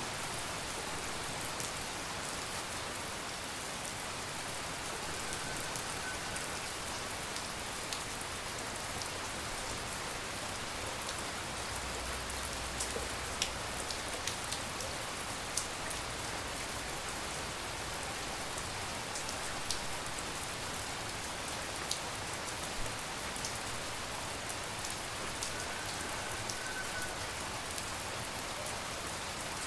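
Steady tropical rain falling, a continuous even hiss with scattered sharper drip ticks, more of them around the middle.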